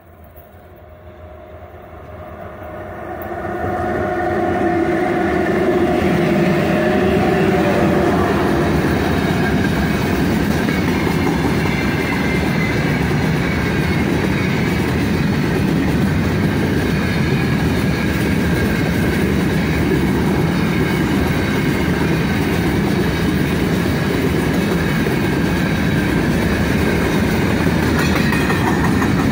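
3ES5K 'Ermak' electric locomotive hauling a freight train, growing louder as it approaches and humming as it goes by a few seconds in. A long string of open-top freight wagons then rolls past close by with a steady rumble and wheel clatter on the rails.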